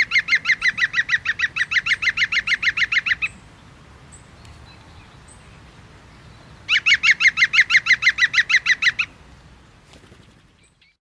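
A bird calling in two long, fast trills of sharp repeated notes, about seven a second. The first lasts a few seconds and the second starts after a pause. The audio falls silent near the end.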